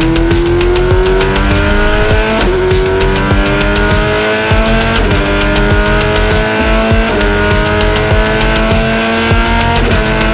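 A motor vehicle engine climbing slowly in pitch, with a short break every two to three seconds, mixed with music that has a steady beat.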